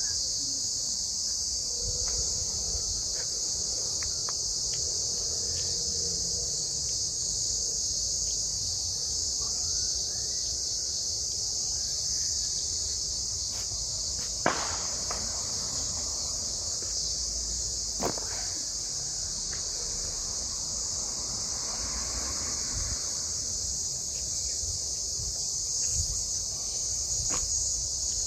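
Steady chorus of cicadas, a dense high buzz, with two sharp clicks near the middle.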